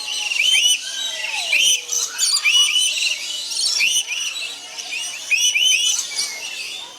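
A flock of lories and lorikeets calling: many short, high-pitched arched chirps repeating and overlapping.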